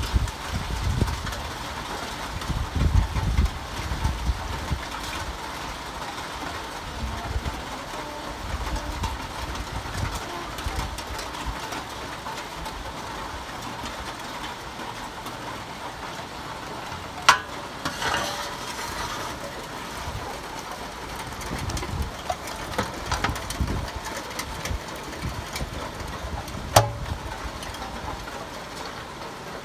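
Steady rain hiss, with low rumbling gusts in the first few seconds and two sharp clicks, about 17 and 27 seconds in.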